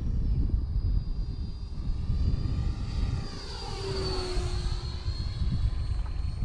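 Electric RC F-86 model jet flying, its high whine steady and sweeping down and back up as it passes close about four seconds in. Strong wind buffets the microphone throughout.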